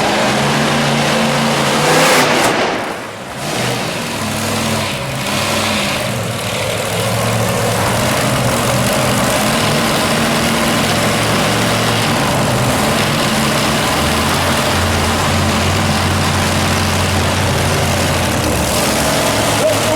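Monster truck engine running hard and revving, its pitch shifting up and down repeatedly, with a loud surge about two seconds in.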